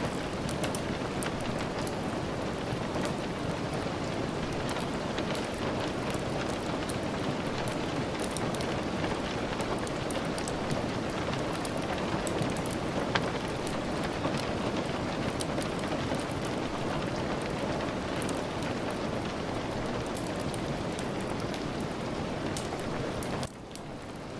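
Steady rain falling, a dense even hiss with scattered sharp ticks throughout. Near the end the sound drops suddenly in level for about a second.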